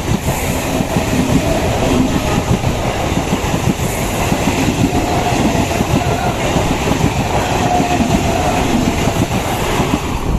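ICF-built electric multiple unit (EMU) local train passing close at speed: a loud, continuous rumble with rapid clatter of steel wheels over the rails.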